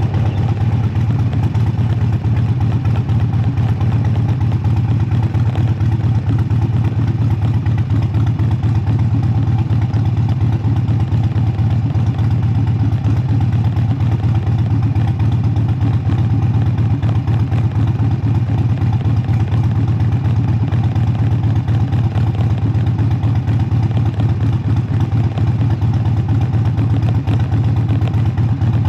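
Harley-Davidson V-twin motorcycle engine running steadily, its low note unchanging without revving.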